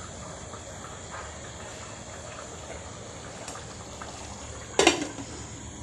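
Steady hiss of a pot of jollof rice cooking on the stove, with one sharp knock about five seconds in.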